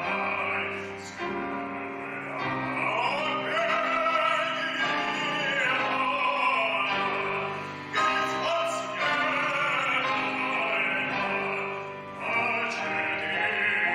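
A song with one voice singing in an operatic style, holding long notes over several phrases, with musical accompaniment.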